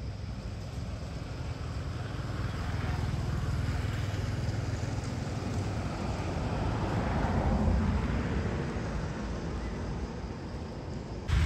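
A road vehicle passing: a rumble that swells over several seconds, peaks about seven seconds in, then eases off. A sudden louder rumble starts near the end.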